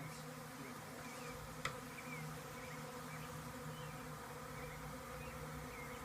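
Honeybees buzzing in a steady, wavering hum as they fly around a newly filled hive, with a single sharp click about one and a half seconds in.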